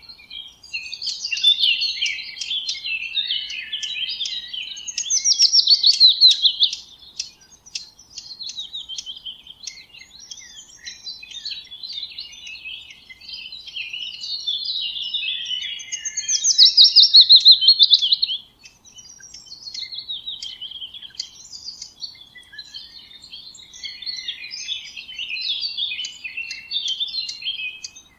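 Songbirds singing and chirping without pause, with two loud rapid trills, one about five seconds in and another about sixteen seconds in.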